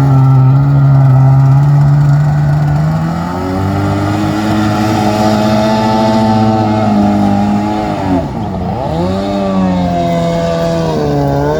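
Small two-stroke engine of a tiny jet boat running hard across the water. Its pitch climbs over the first few seconds, drops sharply about eight seconds in, climbs straight back, and dips again briefly near the end.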